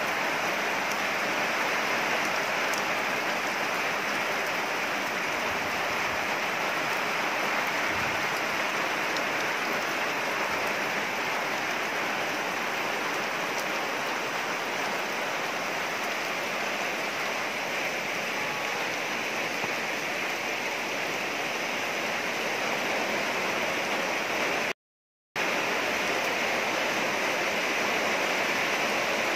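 Steady rain falling, an even hiss of water, which cuts out for a moment near the end.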